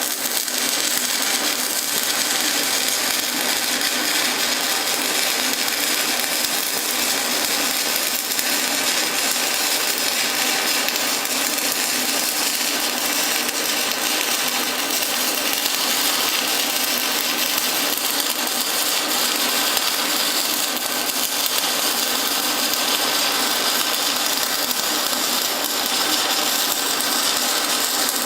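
Stick (SMAW) welding arc crackling and sizzling steadily as a bead is run along a steel lap joint.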